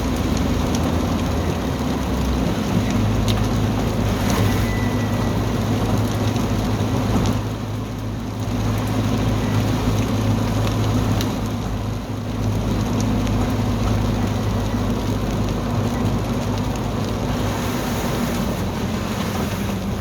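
Car engine running steadily, with tyre and rain noise, heard from inside the moving vehicle's cabin.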